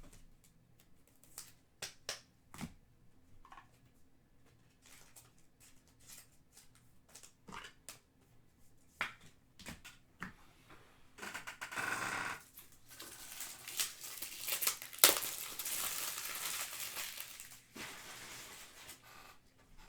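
Trading cards handled with small clicks and taps, then about eleven seconds in a card pack's wrapper crinkling and tearing open for several seconds.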